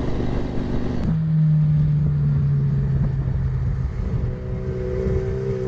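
Motorcycle engine running at a steady pitch over road and traffic rumble. About a second in, the sound changes abruptly to a different engine's steady hum.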